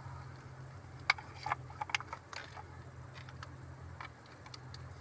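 Small bonfire crackling: a cluster of sharp pops and snaps a second or so in, then a few fainter ticks, over a steady low hum.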